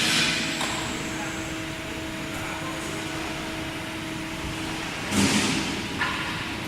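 Metal-cutting band saw machine running with a steady hum, a short burst of hiss about five seconds in and a click near the end.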